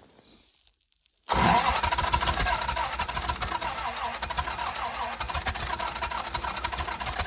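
Engine of an engine-driven welder running fast and steady with a rapid ticking, coming in abruptly about a second in after near silence.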